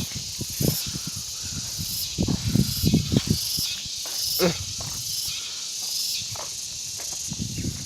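Outdoor ambience with a steady high insect hiss, like crickets or cicadas, and irregular low bumps underneath.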